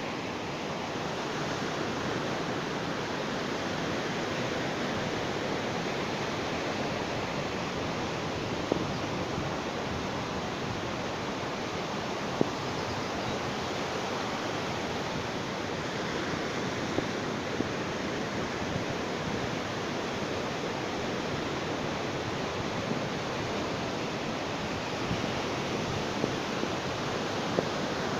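Sea waves washing on a beach in a steady, unbroken hiss of surf. A few brief clicks stand out over it.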